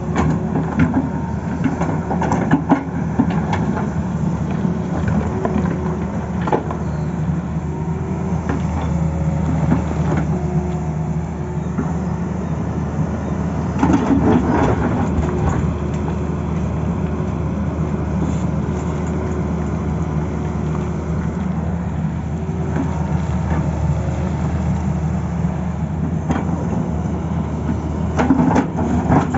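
Tata Hitachi excavator's diesel engine running steadily with a low hum, with a few short knocks, the loudest about halfway through.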